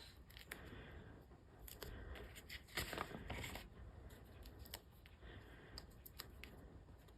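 Faint paper-crafting handling: paper card pieces and foam adhesive dimensionals being peeled and pressed, light scratches and small ticks, with a louder rustling stretch about three seconds in.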